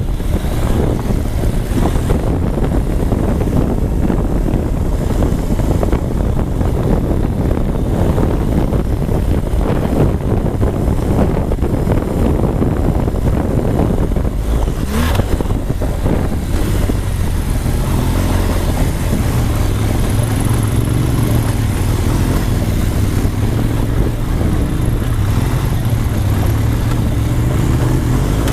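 Motorcycle engine running steadily under way, with a constant noisy rush over it; the low engine hum grows stronger in the second half, and a brief sharp sound comes about halfway through.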